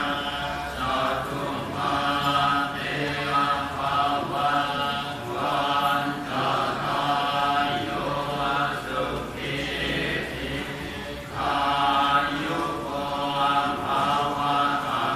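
Buddhist chanting, voices intoning in unison in repeated phrases with brief breaks between them.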